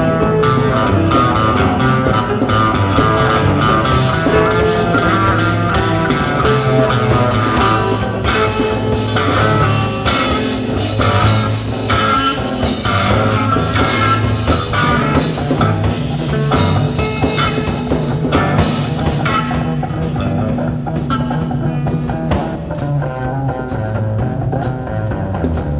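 Live psychedelic rock band playing an instrumental jam: electric guitars over bass and a drum kit, loud and steady.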